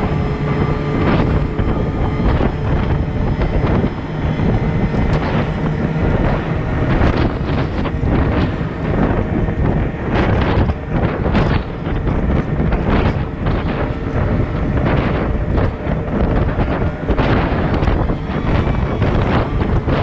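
Heavy diesel machinery running steadily, with frequent gusts of wind noise buffeting the microphone.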